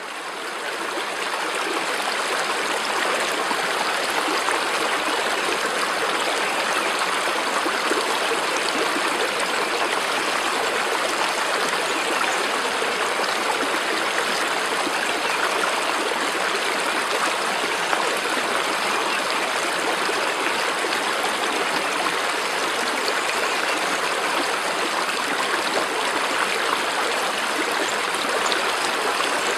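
Steady rushing of a flowing stream, fading in over the first two seconds and then running on evenly.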